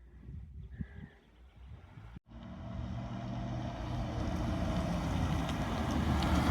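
Triumph Stag's V8 engine running at low speed as the car drives in, growing steadily louder. It follows a brief dropout about two seconds in; before that there is only faint low rumbling and a short bird chirp.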